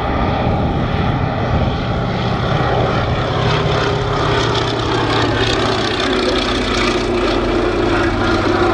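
Fairey Swordfish Mk I biplane in flight, its Bristol Pegasus radial engine and propeller running steadily.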